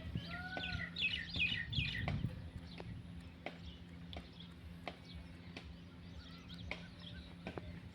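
Fowl calling: a quick run of short high calls and one arching call in the first two seconds, followed by scattered clicks and knocks over a steady low hum.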